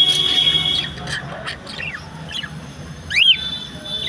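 Parrots and small birds chirping and calling: a held high whistle at the start, scattered short chirps and falling notes, and a loud call that sweeps up and back down about three seconds in.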